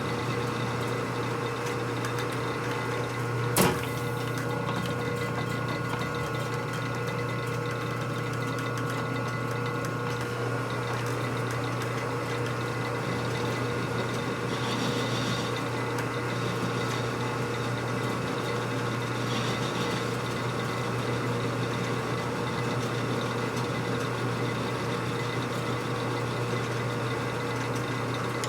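A machine motor running steadily with an even hum and several fixed tones, and one sharp click about three and a half seconds in.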